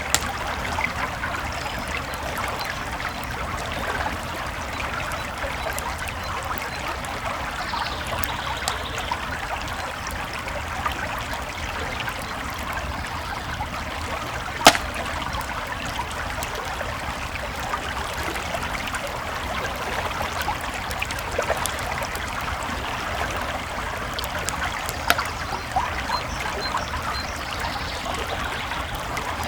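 A creek babbling steadily under a crackling campfire, with scattered sharp pops from the fire; the loudest pop comes about halfway through.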